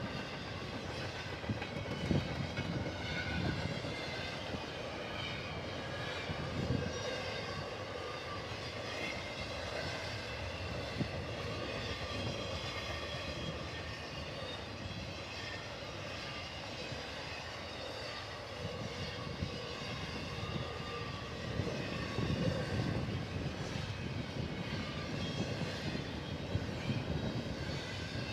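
Freight train cars rolling past on the rails, a steady rumble with faint high whining tones from the wheels.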